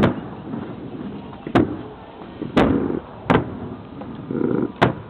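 Fireworks bursting overhead: a string of about five sharp bangs at uneven intervals, each with a short low rumble after it.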